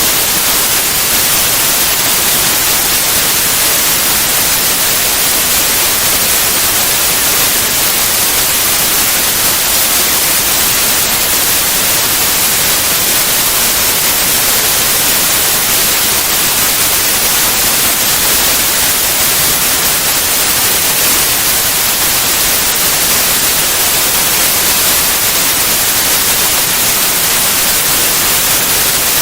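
Steady white noise: an even, constant hiss with no changes.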